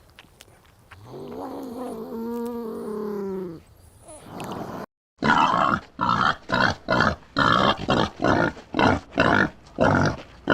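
One drawn-out animal call, rising then falling in pitch. Then, after a brief break, a fast run of loud grunts, about two a second.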